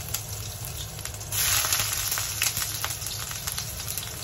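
Shredded ginger sizzling and crackling in hot oil in a wok, being fried until golden. The sizzle turns louder about a second and a half in, as more ginger goes into the pan.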